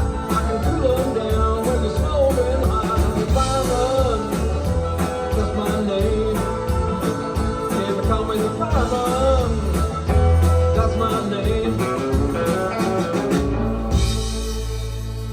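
Live country band playing the instrumental close of a song: a bending lead line over bass and drums, then a held final chord that fades away near the end.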